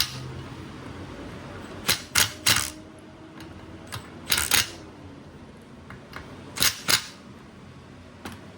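Hand tools and metal parts being handled: about nine short, sharp clicks and clacks, several coming in quick pairs or threes.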